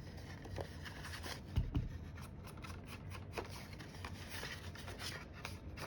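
Cardstock edges being scraped to distress them: a run of short, quick scraping strokes on paper.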